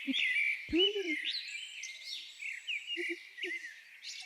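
Small wild birds chirping and singing, many short rising and falling notes overlapping throughout, with a brief human voice sound about a second in.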